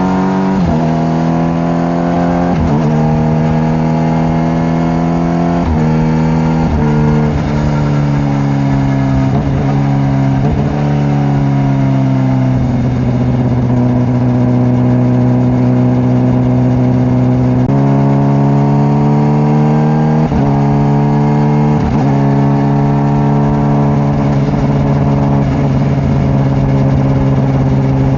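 Honda CBR600RR inline-four engine under way, its pitch climbing and stepping down abruptly at several quick upshifts early on, then falling gradually as the throttle eases. It then holds a steady cruise, with more gear changes in the second half.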